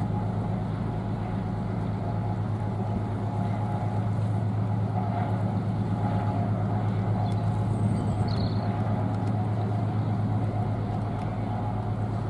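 A steady low engine drone with a constant deep hum and a fluttering rumble underneath.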